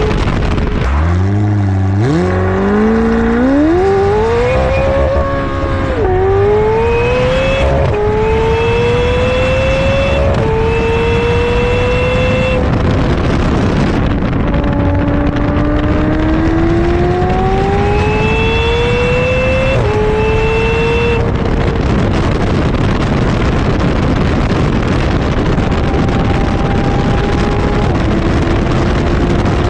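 McLaren 720S twin-turbo V8 accelerating hard from low speed: the engine note climbs in pitch and drops back at each upshift, several times over, above a steady rush of wind and tyre noise. Later the engine settles to a steadier pull with only small rises in pitch.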